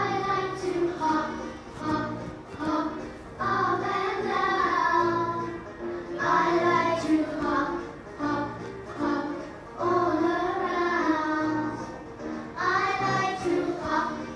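Children's phonics song for the letter H playing from a recording: a child's voice singing phrases over an instrumental backing with a steady beat.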